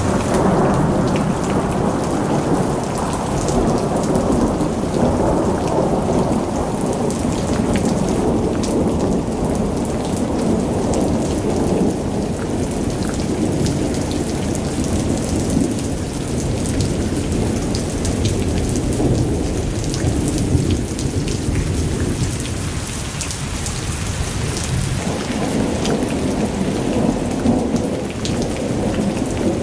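Heavy rain falling steadily with thunder rumbling through it. The low rumble swells and ebbs, easing a little past two-thirds of the way through, then building again.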